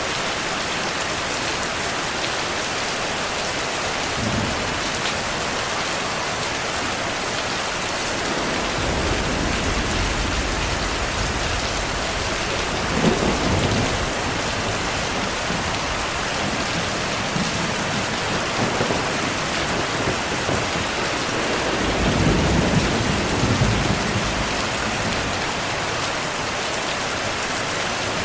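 Steady rain falling, with rolling thunder rumbling low underneath. The thunder swells about a third of the way in and peaks again in the last third.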